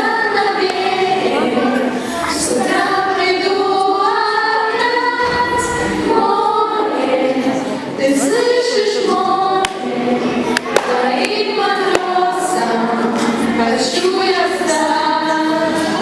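A group of schoolchildren singing together as a choir, holding long sung notes that move from note to note.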